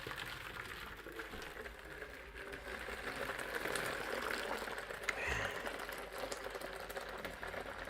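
Water boiling: a steady, dense bubbling rattle that swells a little midway.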